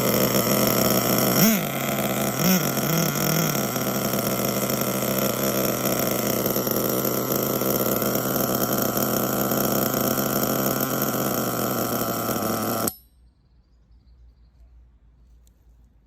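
Hong Nor Force 32 5.2cc nitro engine with a tuned pipe running steadily at a high, buzzing note during its break-in, with a couple of short throttle blips in the first few seconds. It stops suddenly near the end.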